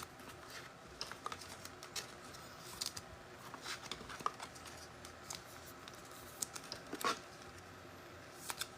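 Trading cards being handled on a table: faint, irregular clicks, taps and short sliding scrapes as cards are sorted and set down.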